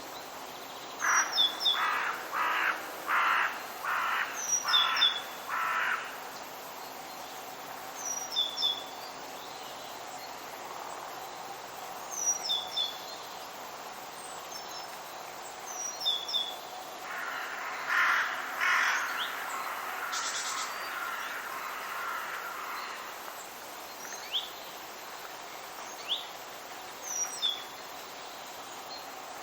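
A crow cawing: six harsh caws in a row about a second in, and another rougher run of calls past the middle. A small songbird repeats a short, high chirped phrase every few seconds, over a steady background hiss.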